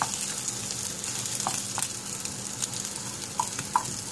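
Egg, kale and vegetables sizzling in a frying pan, with a wooden spatula scraping and knocking against the pan a few times.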